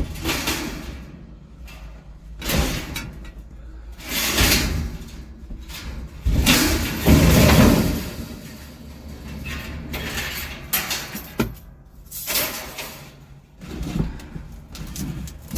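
Scrap metal being unloaded: a run of separate clanks, bangs and scrapes. The longest and heaviest clatter comes about seven seconds in.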